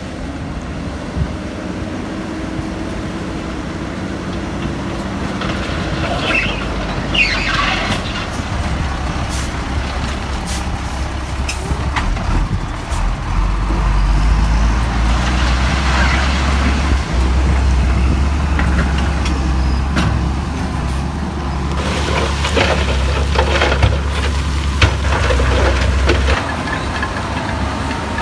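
Diesel engines of heavy earthmoving machinery running with a steady low drone that grows louder about halfway through, with scattered clanks, squeaks and hisses over it.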